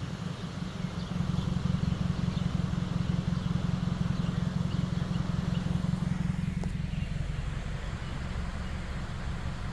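A vehicle driving, heard as a steady low rumble of engine and road noise.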